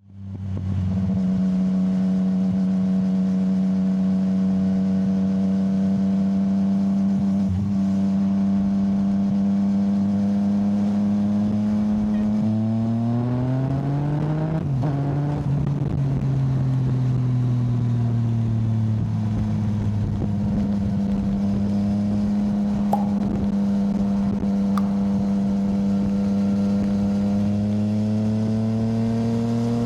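Yamaha motorcycle engine running under way, steady at first. About halfway through the revs climb, then fall away, and they climb again near the end.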